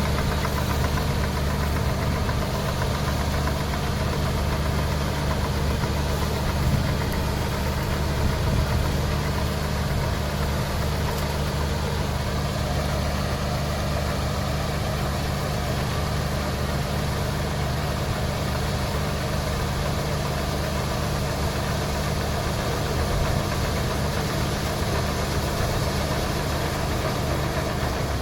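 Heavy diesel engine of a farm machine running steadily at a constant speed, with a strong low hum.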